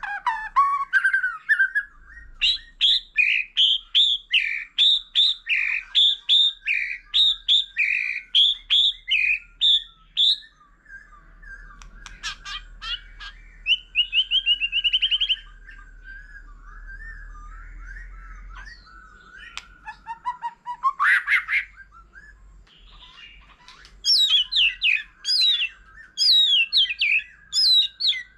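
White-rumped shama singing a varied song: a run of rapid repeated whistled notes, then a short quick trill, sweeping phrases and another burst of fast notes, with pauses between phrases.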